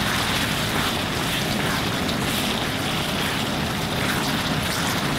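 Chicken and tomato stir fry sizzling and bubbling steadily in a pan as its juices cook down, with a wooden spatula stirring through it.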